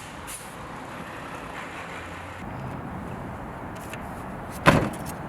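Steady city traffic noise, with a sharp thump a little before the end.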